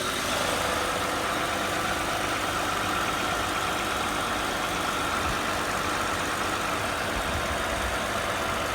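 Toyota Camry 3.5 V6 engine idling steadily under the open hood, in the engine the owner says has a knock.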